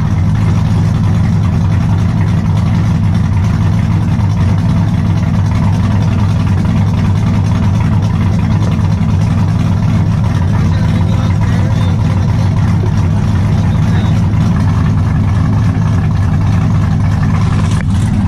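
2014 GMC Sierra Denali's V8, fitted with headers, idling steadily with a deep, unchanging rumble.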